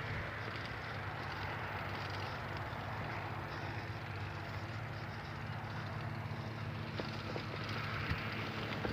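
Bicycle being ridden on a trail: steady tyre-rolling noise and wind on the microphone, with a few sharp clicks and rattles near the end.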